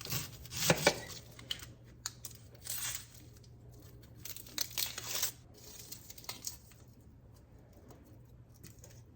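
Dry, papery onion skin being peeled and torn off by hand, in irregular crackling bursts that thin out to a few faint clicks after about five seconds.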